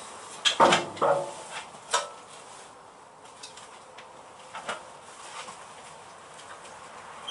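A few sharp metallic knocks and clanks, loudest in the first two seconds, then scattered light clicks: tools and steel panel being handled during bodywork.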